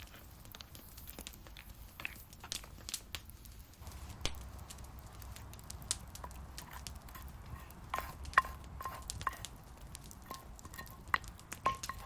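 Wood campfire crackling: scattered sharp pops and snaps, with a quick run of short high ticks in the second half.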